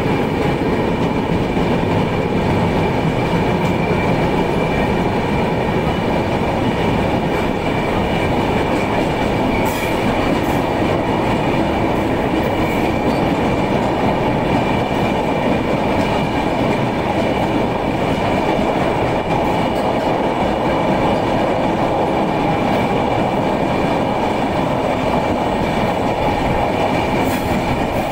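Train running at speed through a tunnel, heard from on board: a loud, steady rumble of wheels and carriages on the rails, with a steady high whine above it.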